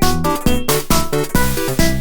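Chiptune music from an emulated Sharp X1turbo's sound chips, driven by the NRTDRV music driver: synthesized melody and bass notes over a steady electronic drum beat.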